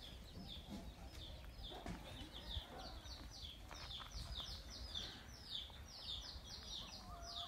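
A small bird chirping over and over, a quick run of short falling notes several a second, with a faint low rumble underneath.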